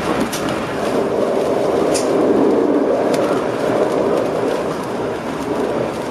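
Passenger train running along the track, heard from inside the driver's cab: a steady rumble of wheels on rails, with a few sharp clicks.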